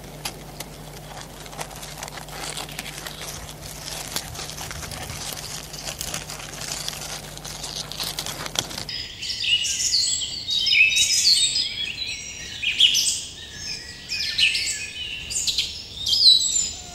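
Crackly noise with many small clicks and a steady low hum for about nine seconds, then several birds chirping and singing in quick, high-pitched phrases.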